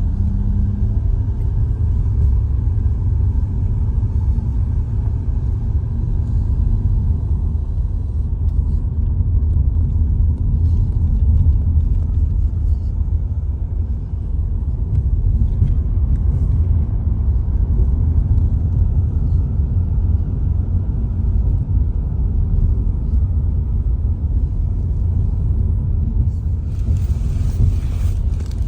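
Steady low road and engine rumble inside a moving car's cabin, with a brief rush of hiss near the end.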